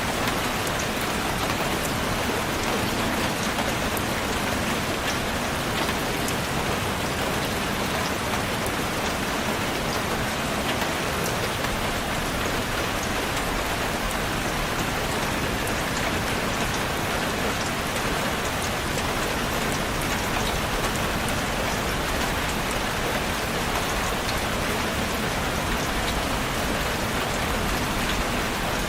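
Steady rainfall, an even hiss of rain with many small drops ticking on a surface.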